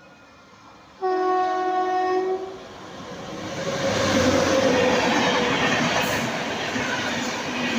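A train horn sounds once, about a second in, holding a steady chord for about a second and a half. Then the rushing noise of a fast express train passing at speed builds up and carries on.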